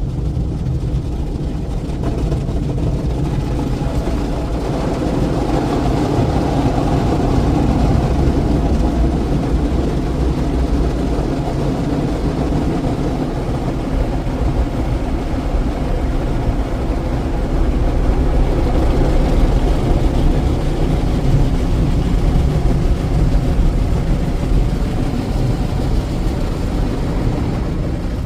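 Istobal FLEX5 automatic car wash running, a steady dense wash noise over a low rumble that swells and eases in loudness.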